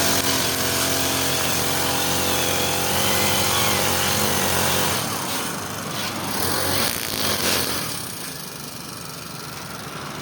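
Small two-stroke brush cutter engine running steadily, dropping away about five seconds in to a quieter rough sound.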